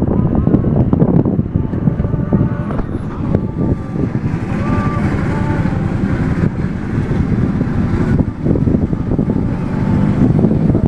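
Steam traction engine running under load as it pulls a heavy house on wheels, a dense low rumble of quick knocks. A faint higher tone rises above it about five seconds in, and wind buffets the microphone.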